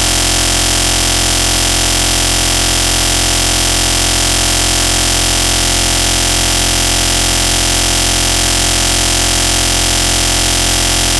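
Loud, steady noise like static, with a constant low hum under it, unchanging throughout.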